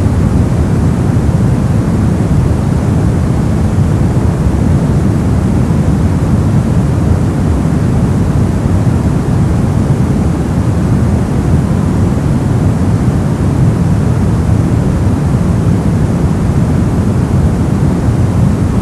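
Steady brown noise: an even, deep rumbling hiss, strongest in the lows and fading toward the highs, with no changes or events.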